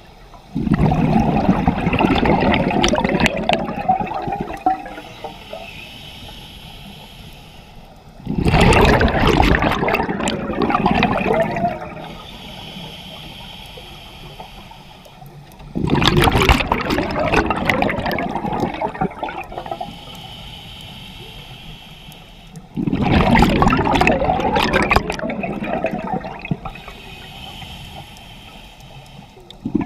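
Underwater scuba breathing through a regulator: four loud gurgling rushes of exhaled bubbles, each lasting three to four seconds and coming about every seven seconds, with a quieter hiss of inhalation between them.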